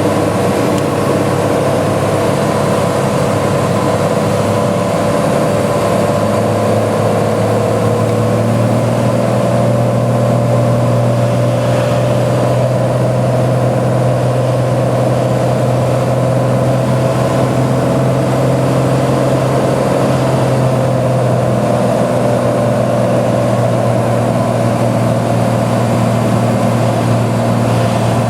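Cessna 182 engine and propeller droning steadily in flight, the low drone stepping up a little in pitch about eight seconds in.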